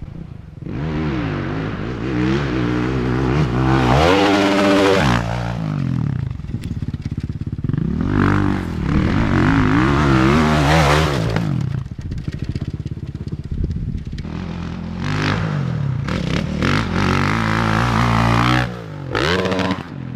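Dirt bike engine revving up and falling back several times, its pitch rising and dropping as the throttle is worked on the track.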